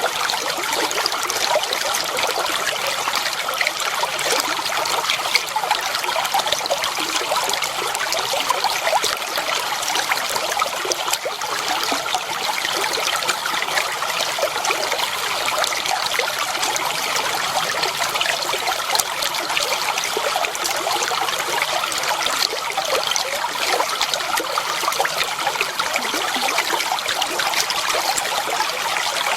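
Clear water flowing and trickling steadily over stones, a continuous babbling splash with no pauses.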